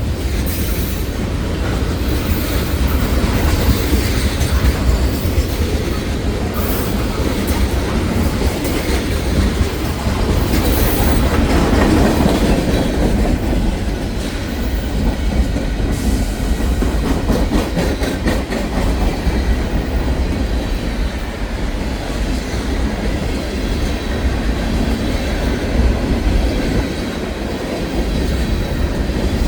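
Union Pacific freight train rolling past: a steady, loud rumble of wheels on rail, with a run of quick wheel clicks over rail joints about halfway through.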